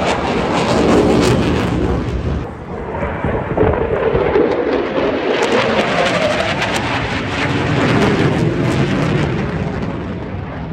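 Eurofighter Typhoon's twin turbofan jet engines at high power during a display pass: a loud, rumbling jet noise with crackle. It dips briefly about two and a half seconds in, swells again, and fades near the end.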